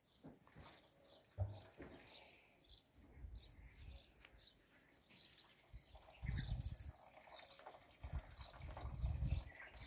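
Faint chirping of small birds, many short high chirps scattered throughout, with low rumbles about six seconds in and again from about eight seconds.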